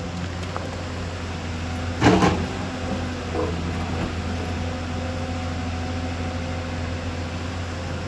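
Excavator diesel engine running steadily, with a loud clank about two seconds in and a lighter knock a little later.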